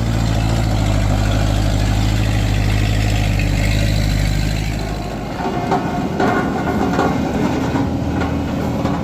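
Heavy truck engine running with a deep, steady hum; after about five seconds the sound turns rougher, with higher engine tones coming in.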